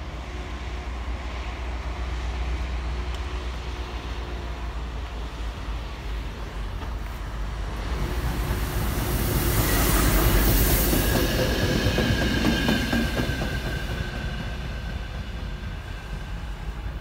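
Diesel locomotive hauling a work train of track-maintenance vehicles passing close by: engine hum and rolling wheels build up, are loudest about ten seconds in, then fade as it goes away, with a thin steady squeal from the wheels as the wagons pass.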